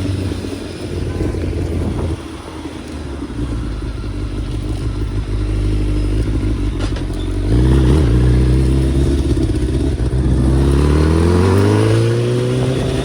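Kawasaki ZX-10R inline-four engine running, a rough low rumble at first, then from about halfway in a steady climb in revs as it accelerates.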